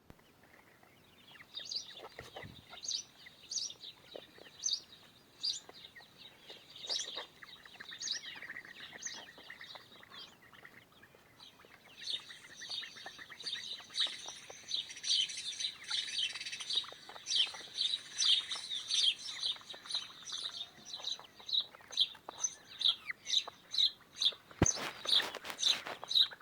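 Birds chirping in a steady run of short, high peeps; about halfway through more birds join in and the chirping grows denser for several seconds. A single brief knock near the end.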